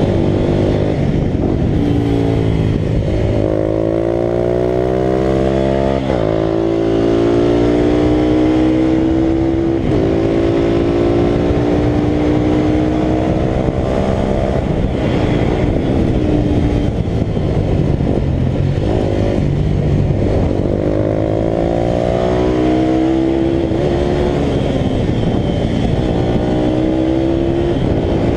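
Italika RT200 race motorcycle's single-cylinder four-stroke engine at high revs, its pitch climbing through the gears with breaks at each upshift, dropping about halfway as it slows for a corner, then climbing again, with wind noise throughout.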